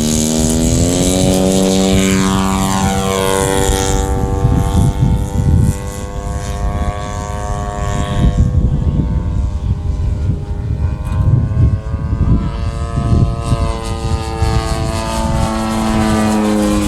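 Engine and propeller of an RC model Ultimate biplane running at high throttle. Its pitch rises over the first couple of seconds and then shifts up and down as the plane flies around.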